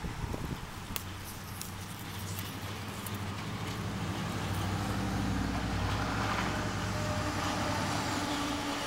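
A motor vehicle's engine humming, growing louder from about three seconds in and holding before fading near the end, with a few sharp clicks in the first second.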